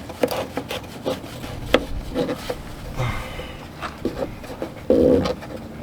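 Close, hands-on handling of a diesel fuel filter bowl and its new O-ring: small clicks and rubbing scrapes as the parts are fitted together by hand, with a louder, short bump about five seconds in.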